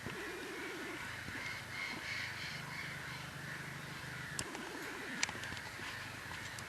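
Harsh, croaking bird calls, twice, over steady outdoor background noise, with a couple of sharp clicks about four to five seconds in.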